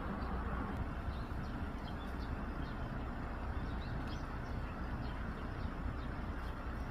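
A steady rushing background noise with a low rumble, and faint short bird chirps scattered throughout.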